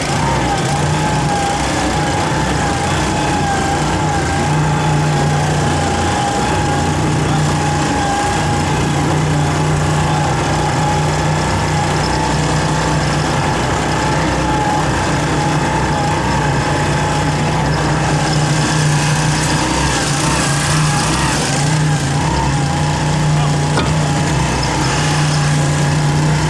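Oyster dredge boat's engine running steadily, a constant low drone with a wavering high-pitched whine over it.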